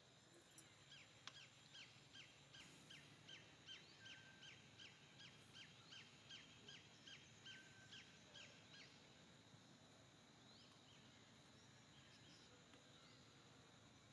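A bird calling faintly, a fast run of short falling chirps, about three a second, that stops after several seconds.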